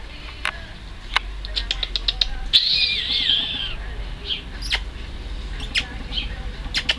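Pug puppy giving a brief high, wavering squeal about two and a half seconds in, among scattered sharp clicks and a quick run of ticks just before it.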